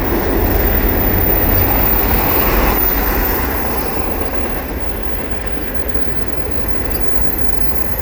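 Freight train of auto rack cars rolling past: a steady rumble of steel wheels on the rails, a little louder in the first few seconds.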